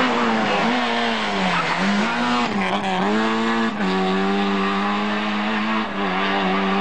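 Rally car engine revving hard. Its pitch rises, drops sharply at gear changes and lifts off the throttle, then holds steady at high revs.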